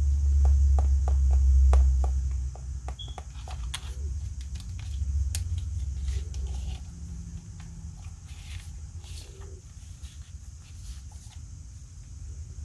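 Unboxing handling of collectible-figure packaging: a run of small clicks and taps, dense for the first few seconds and sparser later. A low rumble, like handling on or near the microphone, comes in the first two and a half seconds and again briefly in the middle.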